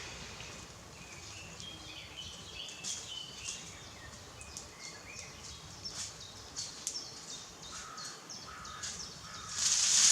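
Birds calling in woodland, with short repeated caw-like calls among higher chirps. A loud, brief rushing noise comes near the end.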